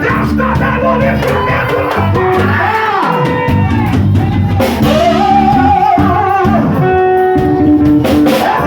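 Worship band music with drum kit and guitar, and a sustained, wavering singing voice.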